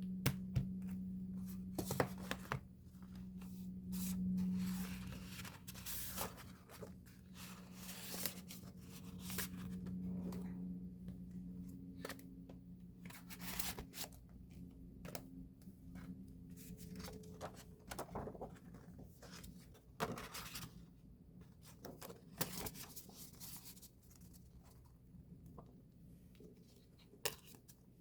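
Album packaging being torn open and handled: irregular crinkling, rustling and small knocks, busiest in the first two-thirds and thinning out toward the end.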